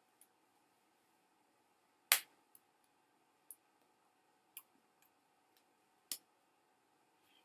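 A handful of sharp, isolated taps or clicks at irregular intervals over a faint steady hum, the loudest about two seconds in and another strong one about six seconds in.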